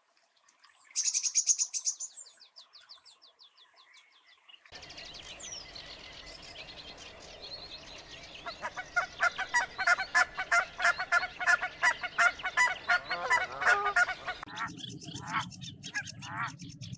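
Birds calling in a string of short clips: a quick run of high chirps, then rapid repeated calls at about five a second over a steady background hiss, then scattered calls over a low hum.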